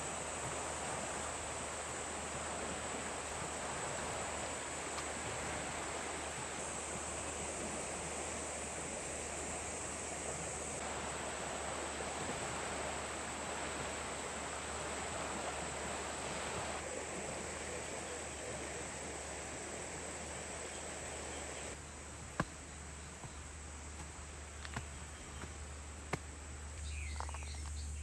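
Rural outdoor ambience: a steady high insect drone over an even background hiss, changing abruptly a few times. A couple of sharp clicks and a few short bird calls come near the end.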